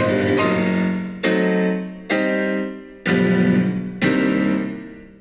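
Background piano music: a run of sustained notes, then four chords struck about a second apart, each left to ring and die away, the last fading out.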